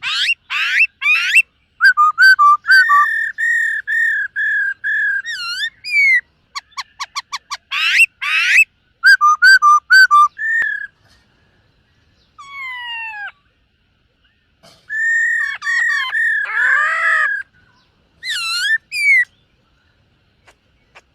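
Black-throated laughingthrush singing: loud whistled phrases of fast sweeping notes and runs of short repeated notes, a falling glide about twelve seconds in, then a longer rich phrase and a few last notes, with short silent gaps between phrases.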